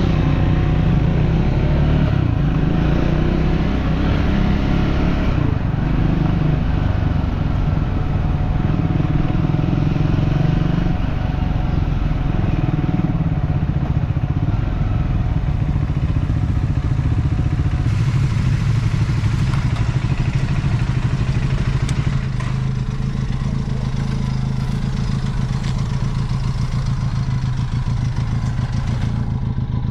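A motor vehicle's engine running steadily with road noise, easing slightly a little after two-thirds of the way through.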